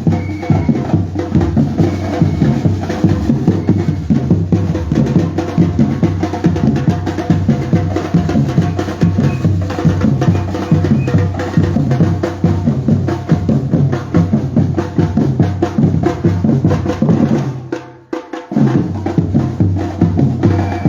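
Batucada drum ensemble playing a steady, driving rhythm of bass drums and snare drums with sharp wood-block-like clicks. It breaks off for a moment near the end and picks up again.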